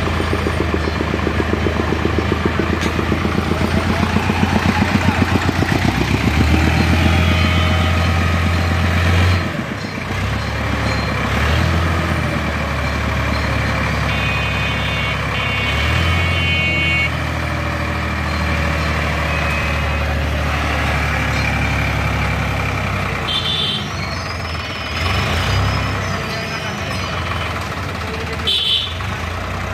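Tractor's diesel engine running, with a steady low throb whose firing pulses are plain for the first several seconds.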